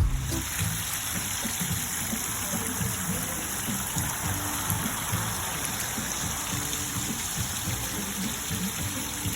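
Steady rush of splashing water, with soft music underneath.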